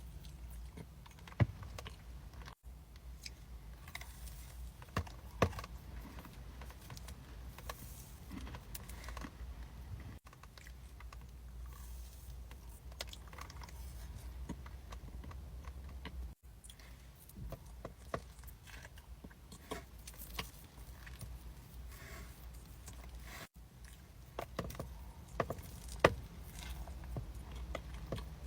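Close-miked eating of cookies: soft chewing and crunching with scattered sharp clicks and taps, in short stretches that cut off abruptly from one to the next.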